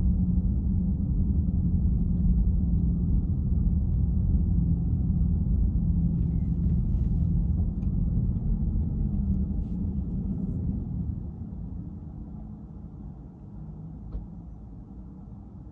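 Car driving, a steady low road and engine rumble that drops clearly in level about eleven seconds in. A faint click comes near the end.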